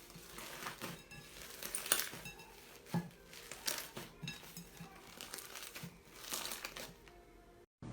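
Slime being squeezed and pressed by hand, giving irregular crackling and crinkling with scattered sharp pops. It cuts off abruptly near the end.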